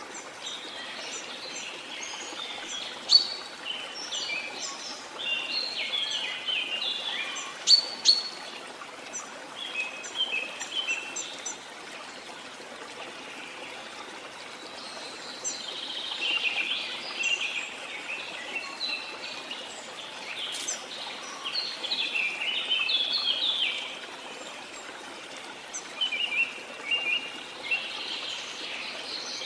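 Several birds chirping and singing in quick, overlapping phrases over a steady hiss of running water, with a few sharp, loud chirps standing out.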